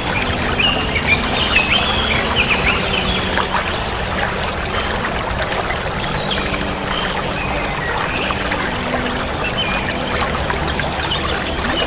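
Water splashing and trickling along a moving boat, with short high bird chirps over it, most in the first few seconds and again later on.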